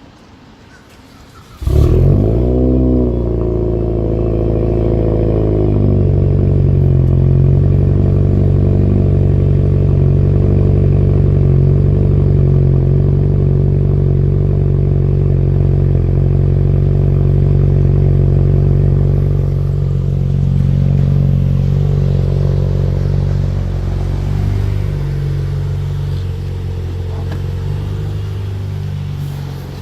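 2014 Buick Regal Turbo's 2.0-litre turbocharged four-cylinder starting cold about two seconds in, heard through a muffler-delete straight 2.5-inch exhaust. It flares up briefly on catching, then settles into a steady high fast idle that eases down slowly near the end as it warms.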